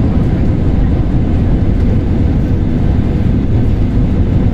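Steady, loud low rumble of airliner cabin noise, the engines and airflow heard from inside the passenger cabin.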